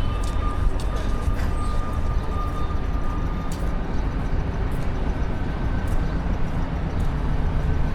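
Downtown street traffic: a steady low rumble of passing vehicles, with a thin steady whine through the first three seconds and scattered light clicks.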